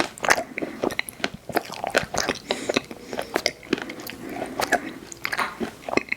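Close-miked biting and chewing of ice cream desserts, wet mouth sounds broken by many irregular sharp crackly clicks.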